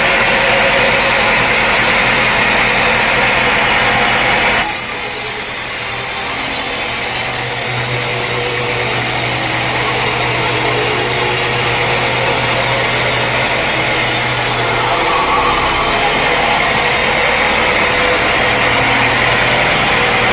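Sawmill saw cutting through a teak log over a steadily running engine. The sound changes abruptly about five seconds in, a steady low hum comes in during the cut, and it changes back near sixteen seconds.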